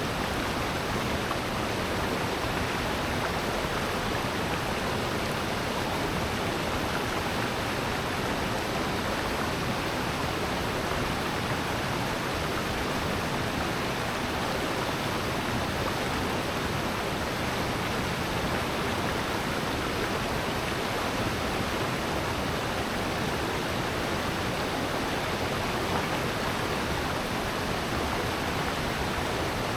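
Rushing water of a valley stream with waterfalls, a steady, even rush with nothing else standing out.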